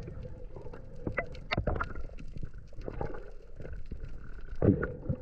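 Underwater sound through a camera housing: irregular knocks and clicks over a low gurgling rumble, with the loudest knock near the end.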